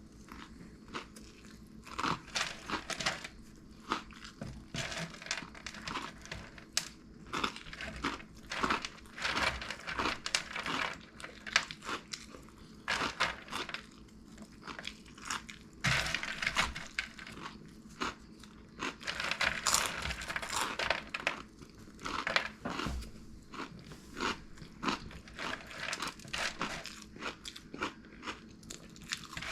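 Flamin' Hot BBQ Cheddar Cheetos being chewed close to the microphone: irregular crisp crunches of the puffed corn snack throughout.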